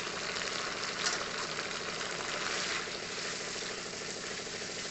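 Fresh curry leaves, sliced onions and green chillies frying in hot oil in an aluminium kadai: a steady sizzle as a spoon stirs them.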